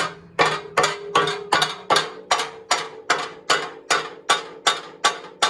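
A hammer striking metal in a steady rhythm, about fifteen even blows at roughly two and a half a second, each with a short metallic ring.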